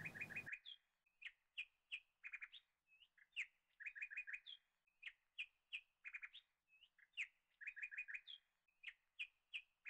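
Faint birds chirping: short high chirps, often in quick runs of three or four, repeating throughout.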